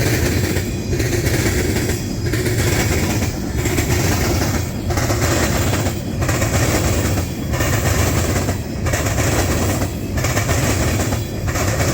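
Freight train cars rolling past on the rails, the sound rising and dipping about once every second and a half as each car goes by.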